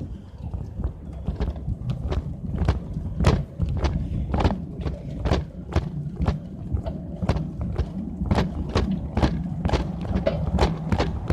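Bicycle being ridden, with a steady low rumble and a run of sharp, irregular clicks and knocks, roughly two or three a second, as the bike rattles along.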